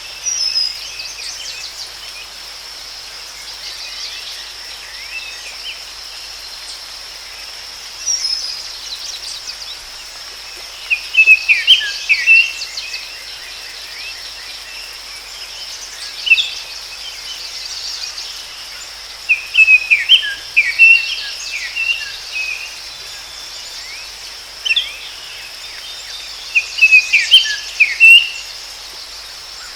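Forest ambience: a steady, high-pitched insect drone, with a bird singing short bursts of quick chirps about every few seconds, most densely about 11 seconds in, about 20 seconds in and near the end.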